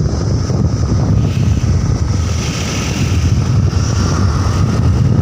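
Wind rushing over the microphone on a moving motorbike, with the bike's engine and road noise running steadily underneath.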